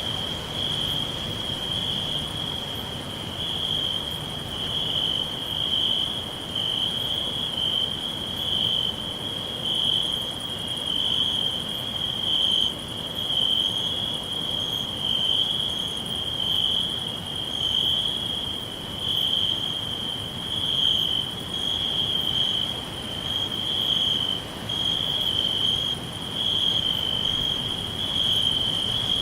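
Crickets chirping in a continuous chorus, a steady high-pitched trill whose loudness swells and fades every second or two.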